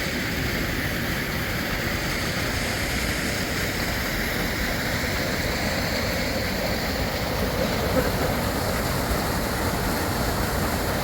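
River water rushing steadily, an even wash of noise. There is a single small click about eight seconds in.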